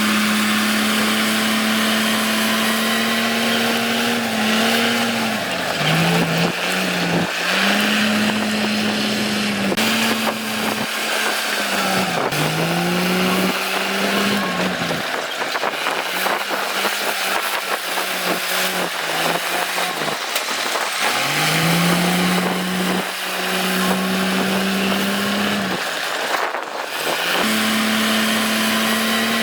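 Diesel engine of a piece of heavy earthmoving equipment running hard. Its note sags and recovers several times as it takes up and sheds load.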